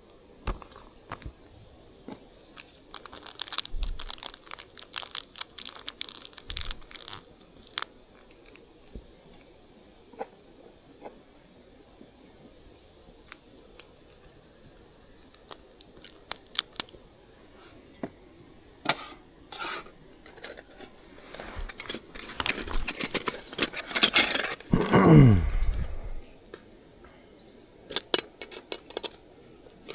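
Rustling, crinkling and small clicks of things being handled. About 24 seconds in, a louder sweep drops sharply in pitch.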